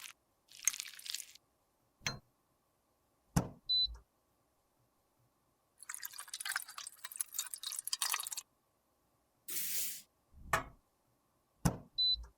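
Close-up handling sounds of makeup being worked: several sharp taps and clicks, with a longer stretch of crackly scraping in the middle.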